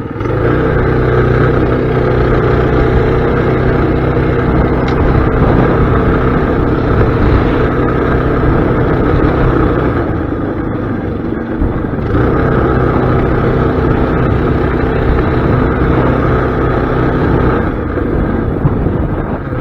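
Mini bike engine running hard under throttle in a speed run. It eases off about ten seconds in, opens up again a couple of seconds later, and eases off near the end.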